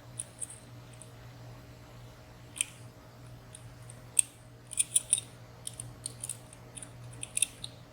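Lock pick and tension tool working inside a WSW W10 high-security slider padlock: scattered light metallic clicks as the pins and sliders are probed, coming thick and fast in the second half.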